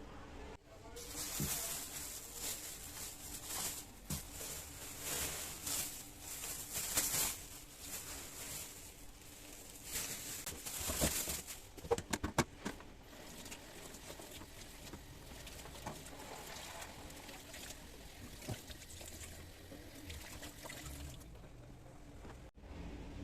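Water running and splashing, loudest over the first ten seconds or so, with a few sharp clicks around twelve seconds in, then continuing more quietly.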